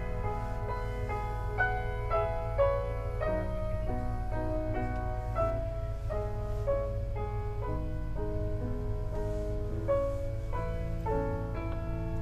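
Piano music: a slow melody of single struck notes, about two or three a second, over a steady low hum.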